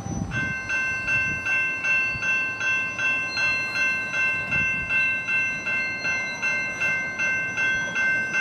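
A bell ringing rapidly and steadily, about three strokes a second, each stroke ringing out with several clear high tones; it starts suddenly.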